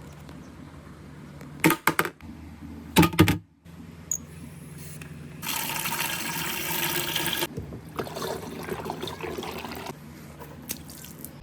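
Water marble run: two quick clusters of hard clacks as marbles knock along the track, then a rush of pouring water for about two seconds in the middle that tails off into a trickle.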